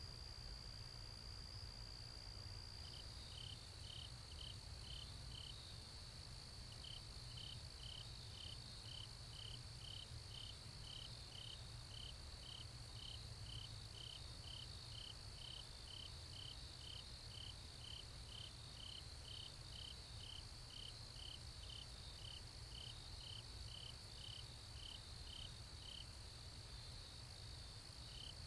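Faint insect chorus, typical of crickets: a steady high trill, with a second insect chirping in an even series of about two to three chirps a second that pauses briefly near the start and stops near the end.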